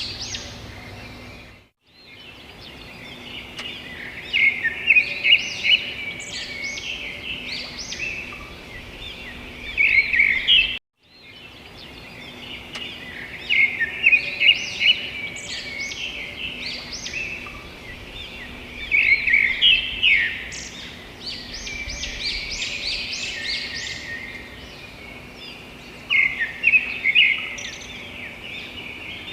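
A chorus of many birds chirping and calling together in short, rapid, overlapping notes. The sound cuts out briefly twice, about two seconds in and about eleven seconds in, where the track is edited.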